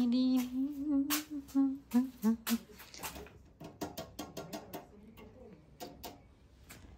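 A person's voice holding a hummed or drawn-out vowel for about a second and a half, then a few short vocal sounds. After that comes a run of sharp clicks and knocks.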